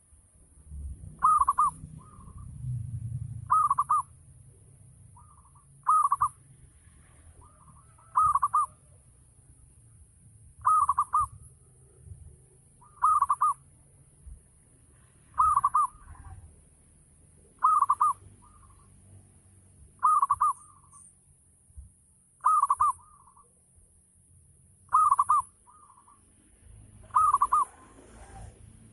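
Zebra dove (perkutut) cooing: a short trilled coo about every two and a half seconds, repeated a dozen times at an even pace.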